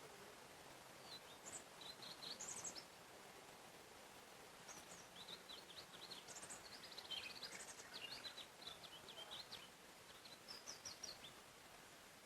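Faint forest ambience with small songbirds singing: quick high chirps and trills in three short spells, over a steady soft hiss.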